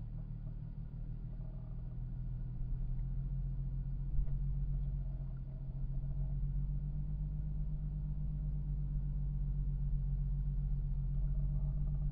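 A car engine running steadily as a low, even hum, heard from inside the car, with a short thump about four seconds in.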